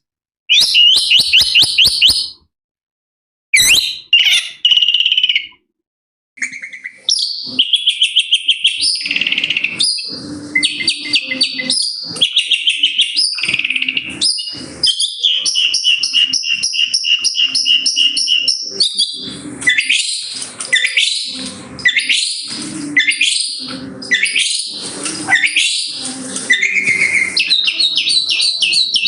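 Shrike singing a fast, varied mimicking song of chattering trills and whistled phrases copied from other birds, with two short breaks in the first six seconds and then unbroken song.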